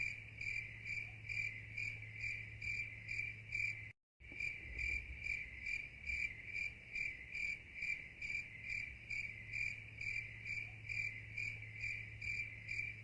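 Cricket chirping night ambience, a steady rhythmic chirp about three times a second over a faint low hum. It cuts out for a moment about four seconds in.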